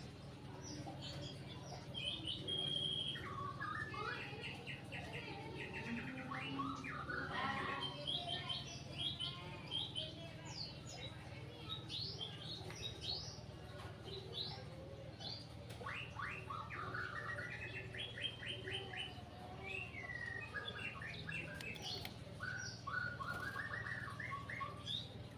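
White-rumped shama singing: a long, varied run of quick whistled notes and rapid repeated trills, over a low steady hum.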